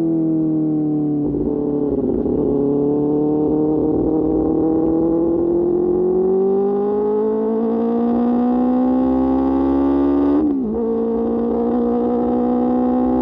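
QJ Motor SRK600's inline-four engine through an SC-Project exhaust, under way: the engine note sags over the first couple of seconds, then climbs steadily as the bike pulls. About ten and a half seconds in there is a brief break and the note drops to a lower steady pitch, a gear change.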